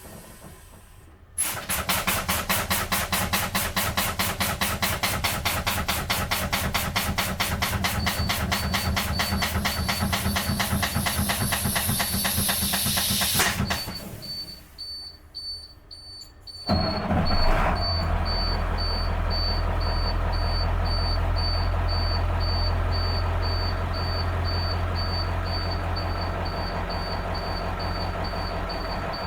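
School bus air-brake pump-down heard from inside the bus. For about twelve seconds there is a fast, even, rhythmic clatter, then a short lull. Then a loud start into a steady low diesel hum, while the low-air warning buzzer beeps over and over: air pressure is below the warning level.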